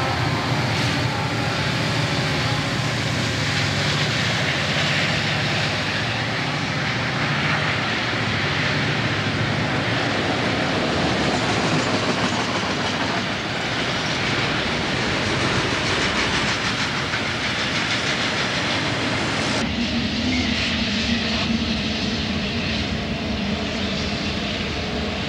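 Diesel freight locomotives and cars passing close by, the engines running with steady rumble and wheels clattering over the rail joints. About three-quarters of the way through it cuts abruptly to the thinner, steadier noise of a freight train moving farther off.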